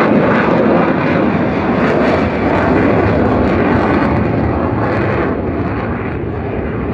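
F-16 Fighting Falcon single-engine jet flying over, a loud, steady rush of engine noise that eases slightly over the last couple of seconds.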